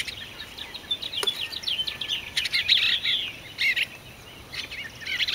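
Small birds chirping and twittering in quick, high calls, with a few sharp taps among them.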